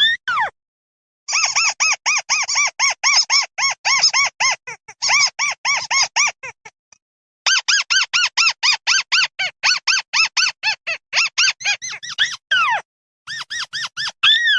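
A bird the Vietnamese call 'mắt xéo' giving its flock call: two long runs of short, clear, arched squeaky notes, about four to five a second, with a few longer down-sliding notes at the start and near the end.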